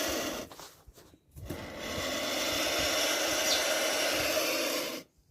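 Turkey vulture chick hissing: a long harsh hiss that breaks off about a second in, starts again, and stops abruptly near the end, the defensive hiss of a disturbed young vulture.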